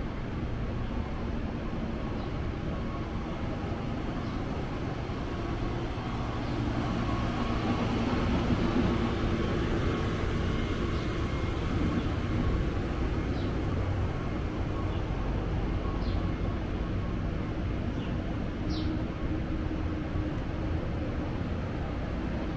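Steady low rumble and hum of a passenger train, Amtrak Auto Train Superliner bilevel cars standing at the platform. A few faint, short high chirps come through near the end.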